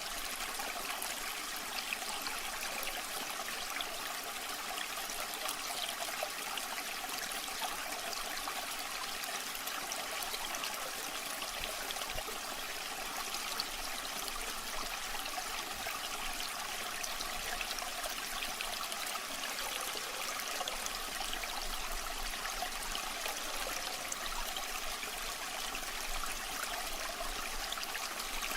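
Waterfall water falling and splashing in a steady, even rush, with no changes in level.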